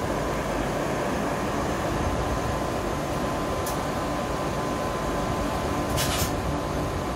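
KTX high-speed train rolling slowly through a station: a steady mechanical hum and rumble with a constant high whine. There are two brief high-pitched sounds, one about three and a half seconds in and a slightly longer one at about six seconds.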